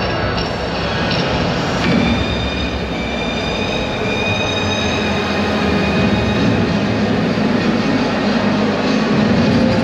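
Train running: a steady rumble, with a thin high whine that drifts slightly in pitch through the middle seconds.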